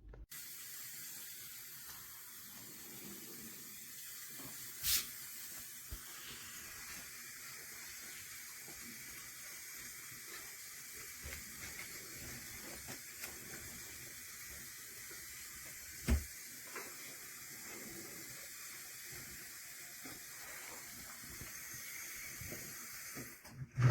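Faint steady hiss, with a sharp click about five seconds in and a low knock about sixteen seconds in.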